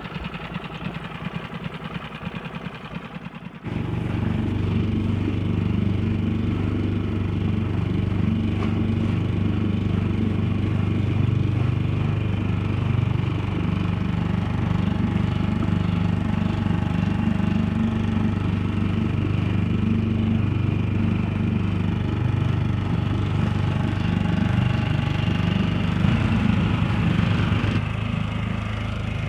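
Small outboard motor on an inflatable dinghy running under way. It starts softer with a pulsing beat, jumps up sharply and holds a steady drone about four seconds in, and drops back a little near the end.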